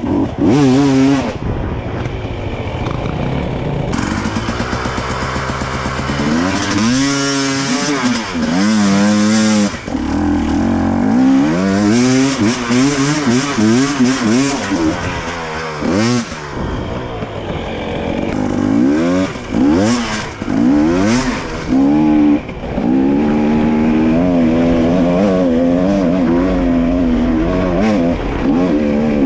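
Husqvarna TE 300i single-cylinder two-stroke enduro motorcycle engine, revving up and falling back again and again as the throttle is worked over rough off-road ground.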